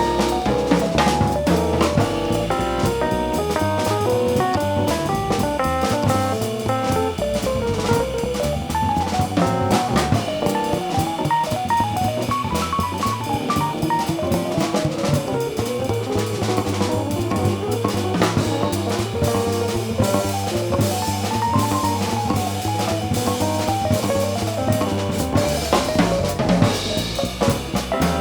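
Live jazz combo playing, with the drum kit prominent under quick melodic runs and a walking low bass.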